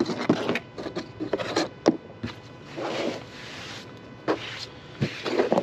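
A brush scraping chain dust and debris off a chainsaw in a series of irregular rubbing strokes.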